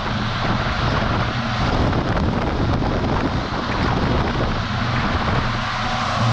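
Wind buffeting a microphone mounted on the outside of a moving semi-truck, over the steady low drone of the truck's engine and road noise.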